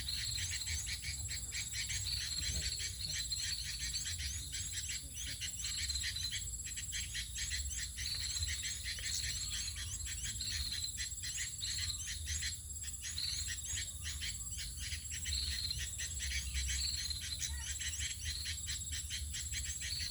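Dense forest insect chorus: a rapid pulsing buzz under a steady high whine, with short high calls repeating about once a second and a low rumble beneath.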